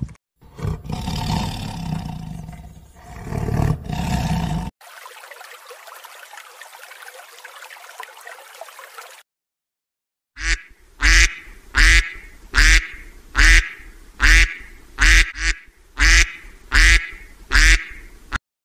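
Mallard duck quacking in a steady series of about eleven quacks, taking up the second half. Before it comes a loud, low animal call lasting about four seconds, then a faint hiss that cuts off about nine seconds in.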